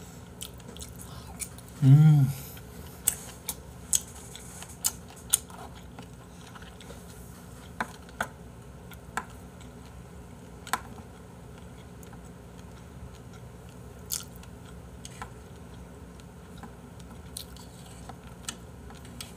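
A person chewing a close-miked mouthful of raw beef tartare (yukhoe) on roe-stuffed squid, with wet clicks and smacks scattered through. A short hummed 'mm' about two seconds in is the loudest sound.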